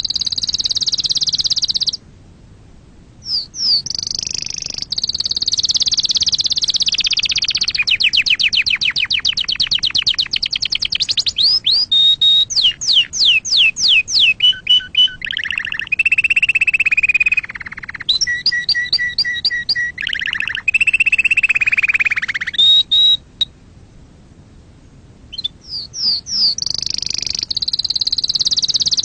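Domestic canary singing a long song of rolling trills: a very fast trill of many notes a second, runs of slower repeated sweeping notes, and lower warbled phrases. The song breaks off twice, briefly about two seconds in and for about two seconds near the end, before starting again.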